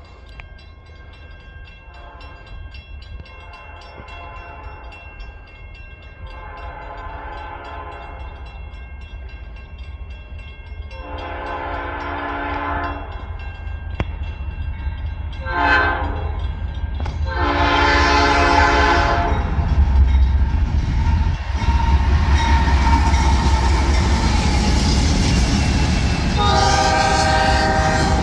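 Diesel freight locomotive's air horn sounding the grade-crossing signal, long, long, short, long, as the train approaches. The low engine and rail rumble grows steadily louder, and one more horn blast comes near the end.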